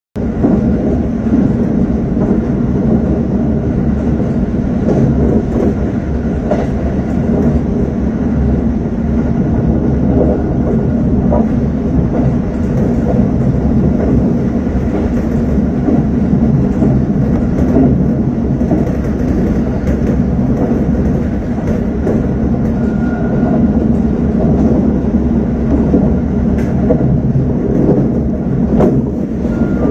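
Electric local train running along the line, heard from inside the cab: a steady rumble of wheels on rail, with occasional clicks as the wheels pass over rail joints.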